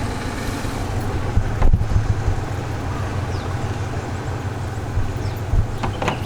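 Diesel train engine running with a steady low drone, and a single knock a little under two seconds in.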